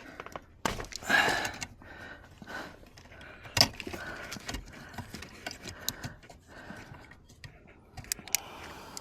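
Small plastic wiring-harness connectors being handled and pried at by hand: scattered light clicks and rattles, with one sharp click about three and a half seconds in.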